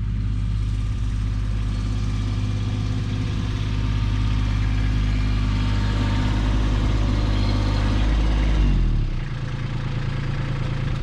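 Kubota B2601 compact tractor's three-cylinder diesel engine running steadily at high revs, then throttling down to a lower idle about eight and a half seconds in.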